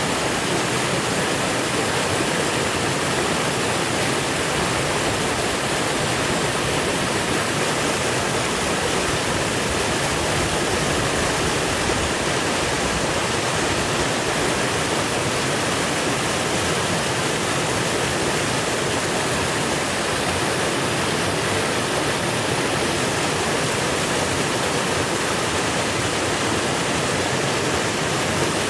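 Creek water running and babbling over rocks, a steady, even rush.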